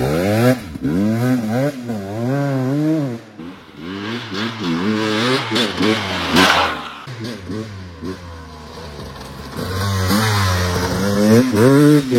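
Dirt bike engine revving up and down repeatedly as it is ridden, the pitch rising and falling with the throttle. It drops back in the middle and picks up again near the end.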